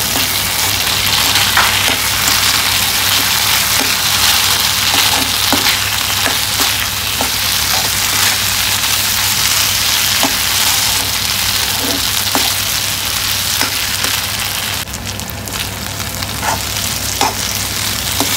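Small potatoes coated in tomato ketchup frying in a pan of hot oil, sizzling steadily as the ketchup cooks down, with scattered light clicks of stirring. The sizzle eases somewhat near the end.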